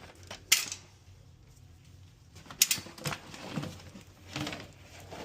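A few sharp clicks and knocks of dryer parts and tools being handled during reassembly. The loudest come about half a second in and at about two and a half seconds.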